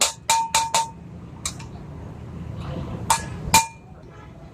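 Hammer blows on metal, each ringing briefly: four quick strikes, a lighter one about a second and a half in, then two more near the end.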